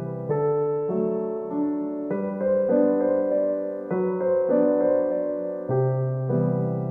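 Background music: a gentle solo piano piece with soft chords and a slow melody.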